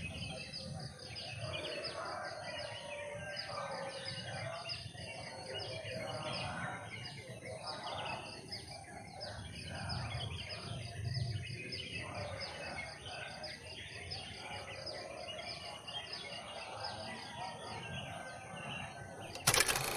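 Birds chirping over a steady background of outdoor noise, cut near the end by a sudden loud burst of noise lasting about a second.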